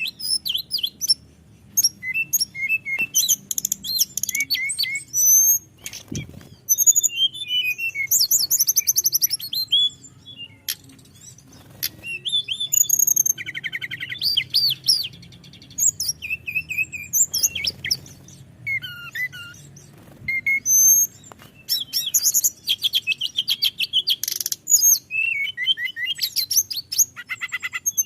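Tledekan gunung singing a long, varied song of rapid trills and high whistled notes, phrase after phrase with only short pauses.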